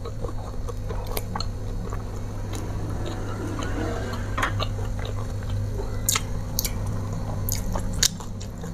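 Close-up mouth sounds of a person chewing and biting raw leafy greens and fried fish, with a steady low hum underneath. A few sharp clicks come near the end.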